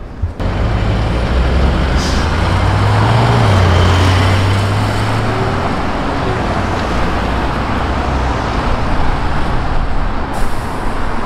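A car's engine accelerating hard with a loud exhaust note. The pitch climbs slightly and then drops at a gear change about three and a half seconds in, before the engine sound fades into steady road noise with a few sharp cracks near the end.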